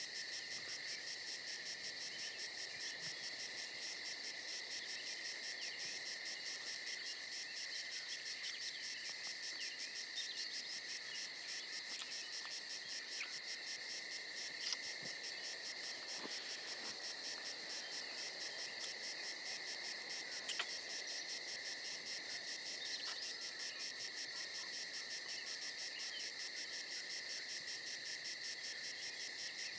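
Crickets chirping in a steady, continuous chorus, with a few faint clicks.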